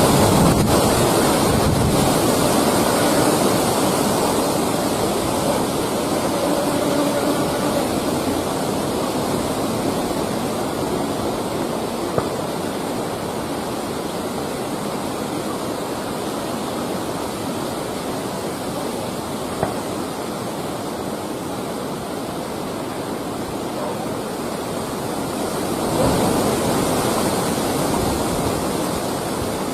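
Steady rushing wind noise outdoors, swelling briefly near the end, with a couple of faint clicks.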